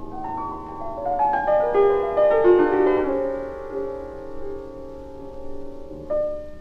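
Solo piano music: a flowing run of notes rising and then falling about a second in, settling into held chords.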